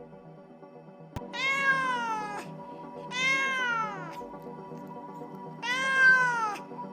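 A cat meowing three times, each meow about a second long and falling in pitch at the end, over quiet background music.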